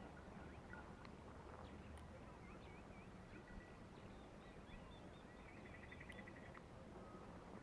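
Faint birdsong: short, repeated wavy chirps from small birds, with a rapid trill lasting about a second near the end, over a low steady background hiss.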